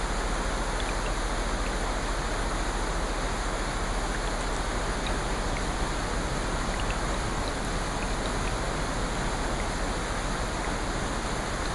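Steady rain, an even rushing hiss with faint scattered ticks of drops.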